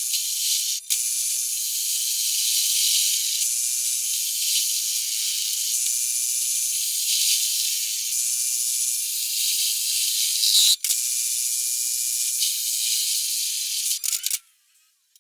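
A power tool working on sheet-metal body panels, running steadily with a high, hissing sound. It stops briefly about a second in and again near the end, then cuts off shortly before the end.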